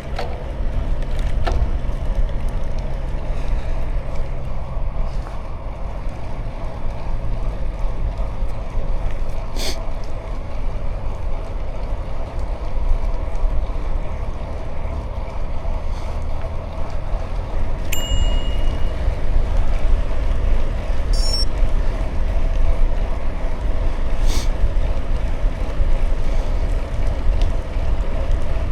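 Bicycle ride ambience: wind rumbling on the microphone over the steady rolling noise of the tyres, with a few light clicks and a brief high tone partway through.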